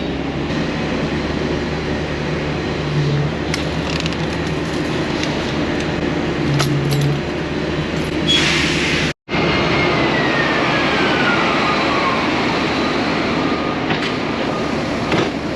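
A large engine running steadily with a constant low hum. There is a short hiss about eight seconds in, then the sound drops out for a moment and resumes, with a faint falling whine after.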